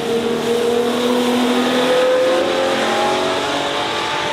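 Koenigsegg Jesko Attack Plus's 5.0 L twin-turbo V8 accelerating, its engine note rising slowly and steadily in pitch.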